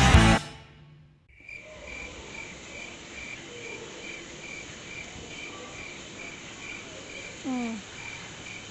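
Rock music cuts off at the start. Then a cricket chirps steadily in an even rhythm, about two to three short high chirps a second, over low background noise.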